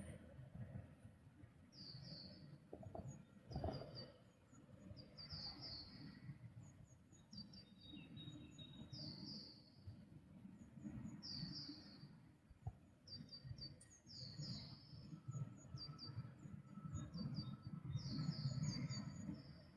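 Songbirds singing in spring: short, high chirping phrases repeated every second or two, over a steady low background rumble.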